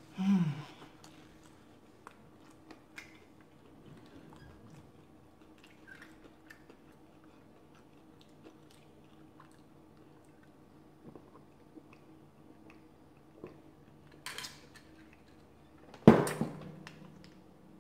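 Close-miked chewing of a beer-battered fish taco: soft, scattered wet mouth clicks. A short hummed "mm" falls in pitch right at the start, and one loud, sudden burst comes from the mouth near the end.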